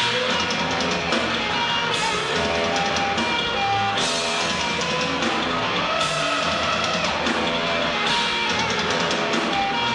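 Noise-rock band playing live: electric guitar and drum kit, with the riff changing in two-second phrases.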